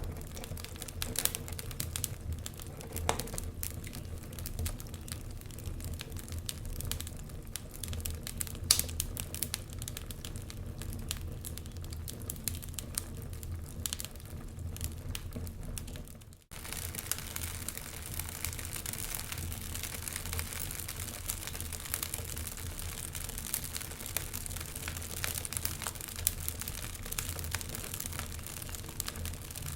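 Wood fire crackling, with irregular sharp pops and snaps over a steady low rumble of flame. The sound drops out for a moment a little over halfway through.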